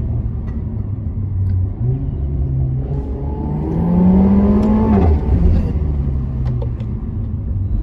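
Renault Mégane RS's 1.8-litre turbocharged four-cylinder engine running through its factory stock exhaust, rising in pitch as it revs up about three seconds in, dropping back about five seconds in, then running steadily.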